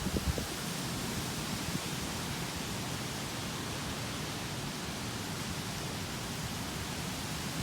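Steady rushing noise of typhoon wind and rain, with a few low thumps at the very start.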